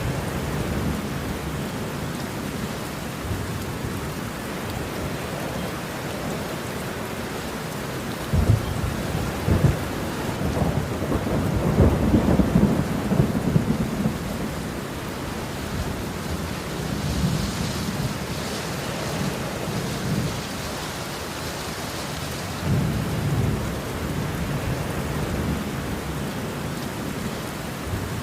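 Steady rain with rolling thunder: a long low rumble swells about a third of the way through, peaking around the middle, and a smaller rumble comes later, over a constant hiss of rain.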